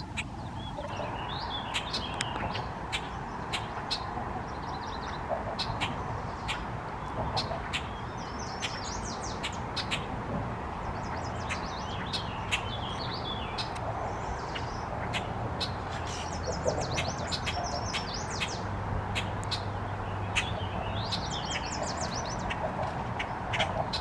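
Songbirds calling: a short warbling song phrase repeats every few seconds among many sharp clicking chips, over a steady background hiss.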